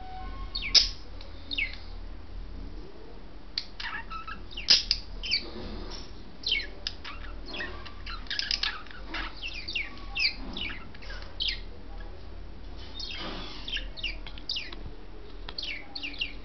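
Pet budgerigars chirping and chattering: a rapid, irregular run of short, high chirps, many of them dropping in pitch.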